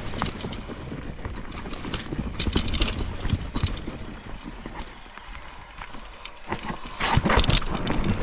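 Mountain bike riding down a wet, rooty trail: tyres rolling over dirt and roots with the chain and frame rattling in irregular knocks, louder clattering near the end.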